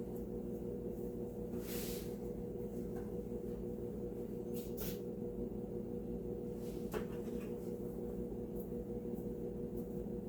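A steady low electrical hum with a few faint, brief swishes and scrapes of a foam sponge brush spreading wood glue on a board, about two, five and seven seconds in.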